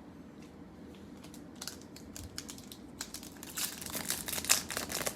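Foil trading-card pack wrapper crinkling as it is handled and torn open: a few faint crackles at first, growing denser and louder from about a second and a half in.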